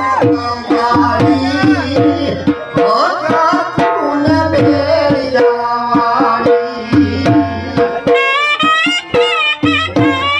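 Sarnai, a shehnai-type double-reed pipe, playing a bending folk melody over a driving dhol beat; about eight seconds in the reed moves to a higher, wavering phrase.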